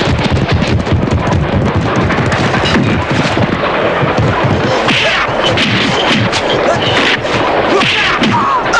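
Loud, continuous, rapid clatter of a moving train in a film soundtrack, with music faintly underneath.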